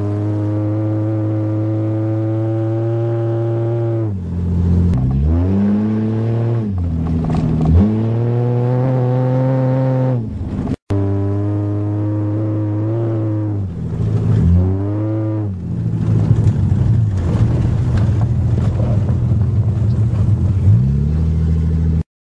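1982 Toyota Cressida's engine revving hard, its pitch climbing and then dropping back sharply several times, with a steadier stretch in the second half before the revs climb again near the end. The sound breaks off abruptly about halfway through.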